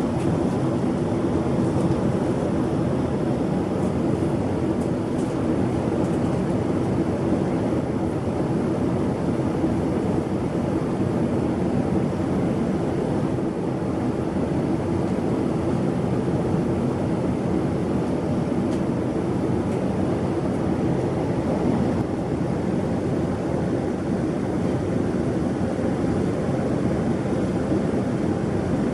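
Steady cabin drone of a Boeing 787 Dreamliner in flight: the even rush of engines and airflow with a faint steady hum, unchanging throughout.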